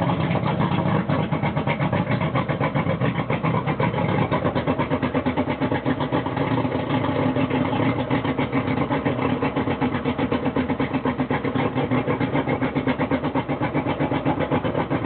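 Suzuki DT225 V6 two-stroke outboard running steadily on the flush, with a fast, even exhaust pulse. The exhaust is damped by a homemade muffler of pipe and inner tube, which the owner reckons cuts the noise by at least 10 to 15 decibels.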